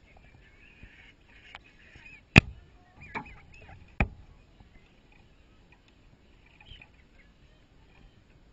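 Domestic chickens clucking and peeping softly, with two loud, sharp knocks about two and a half and four seconds in as a hen pecks at the camera.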